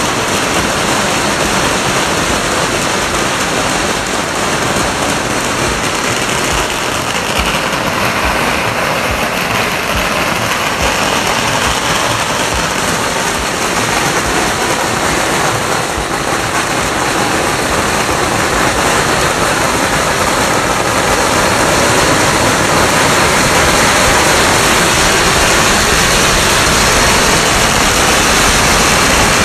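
Firecrackers going off in a dense, continuous crackle that gets a little louder about two-thirds of the way through.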